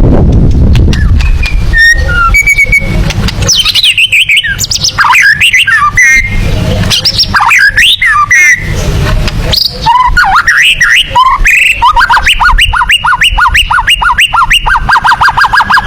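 White-rumped shama (murai batu) singing loud, varied whistled phrases that glide up and down. From about twelve seconds in, it breaks into a fast, even run of repeated upswept notes, the rapid 'tembakan' style prized in contest birds.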